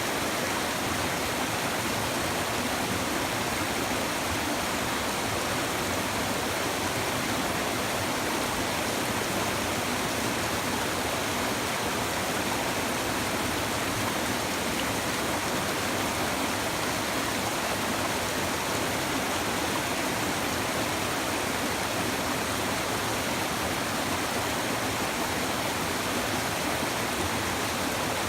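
River water babbling and rushing over stones, a steady unbroken flow.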